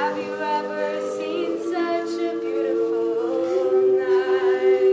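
A cappella group of female voices singing sustained chords in close harmony, with the pitches stepping to new notes and a held chord near the end.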